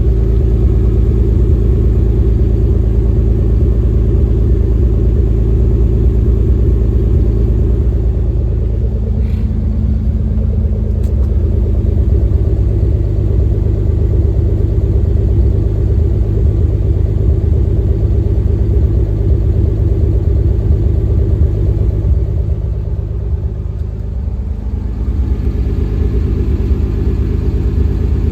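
1990 Nissan 300ZX's V6 idling steadily at a raised warm-up idle after a cold start. It dips in loudness for a couple of seconds near the end, then comes back up.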